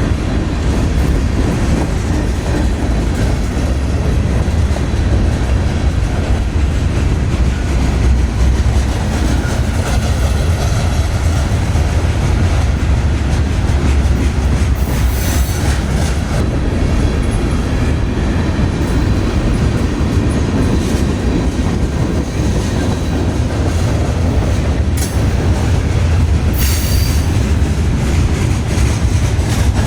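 Freight train rolling past, a steady heavy rumble of cars on the rails, with brief high wheel squeals about halfway through and again near the end.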